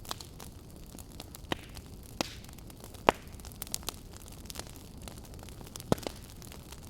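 Firewood burning in a campfire, crackling with scattered sharp pops over a steady low hiss; the loudest pop comes about three seconds in, with a pair near the end.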